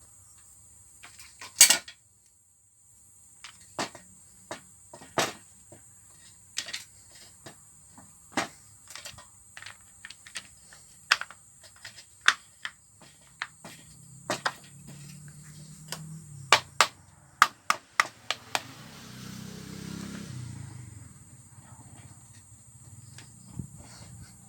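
Irregular sharp clicks and metallic clinks of hand tools and small parts being handled, spaced unevenly about once or twice a second, over a steady high hiss.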